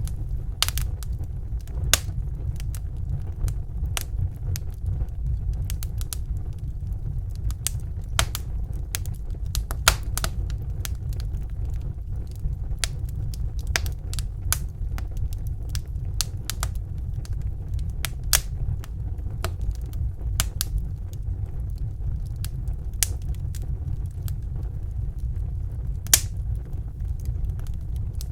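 Wood fire in a fireplace crackling, with irregular sharp pops and snaps, some much louder than others, over a steady low rumble.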